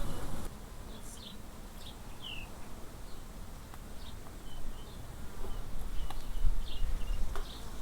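Scattered short bird chirps, one of them falling in pitch, over a low steady rumble.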